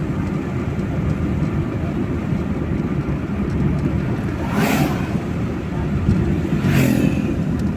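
Road vehicle driving at about 70 km/h: a steady low rumble of road and running noise, with two short hissing swishes, the first a little before the middle and the second near the end.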